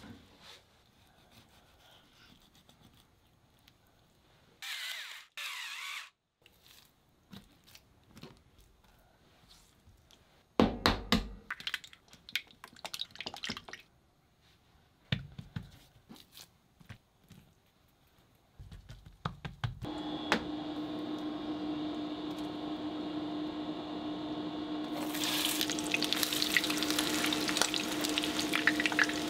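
Scattered kitchen handling sounds: a short hiss, then knocks and taps against a cutting board. About two-thirds of the way through a steady hum comes on, and near the end egg-and-flour-coated chicken thighs start sizzling as they shallow-fry in oil in a frying pan.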